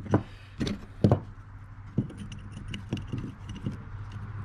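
Small steel clamp parts being handled and fitted together: a few sharp metallic knocks in the first second, the loudest about a second in, then lighter clicks and ticks, over a steady low hum.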